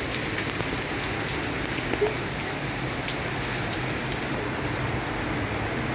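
Steady rain falling, an even hiss with scattered sharp taps of single drops.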